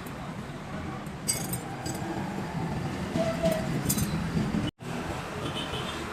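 A few short metallic clinks, like tools or small metal parts being handled, over a steady low rumble of traffic.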